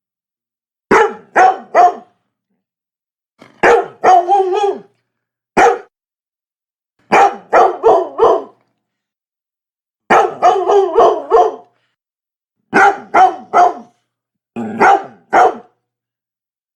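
A Labrador barking in quick bursts of two to four barks, with short silent pauses between the bursts. One bark a little after the start of the second burst runs on into a rougher, growly stretch.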